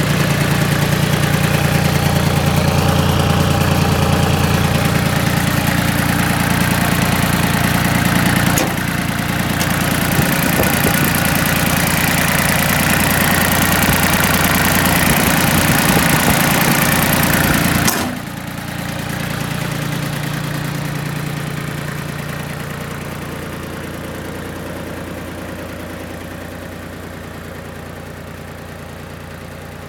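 Mitsubishi MTE2000 compact tractor's diesel engine running steadily. About nine seconds in, a harsher, brighter sound joins it and then cuts off suddenly about halfway through. After that the engine sound eases and grows slowly quieter.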